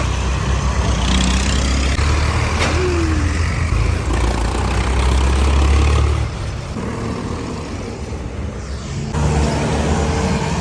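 Agricultural tractor engine running with a deep, steady rumble that drops away about six seconds in and picks up again near the end.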